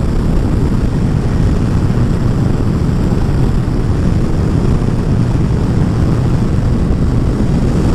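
Steady wind rush and engine drone of a Kawasaki ZZR1400 inline-four motorcycle being ridden at road speed, heard from the rider's position.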